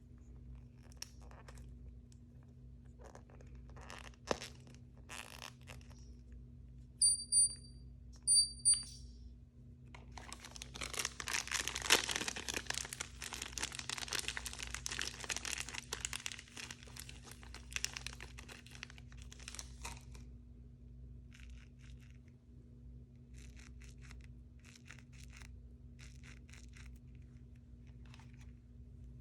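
Blind-bag packaging handled and torn open: scattered taps and crinkles, then about ten seconds of dense tearing and crinkling in the middle, then a few light handling sounds. Two pairs of short high beeps come about seven and eight seconds in.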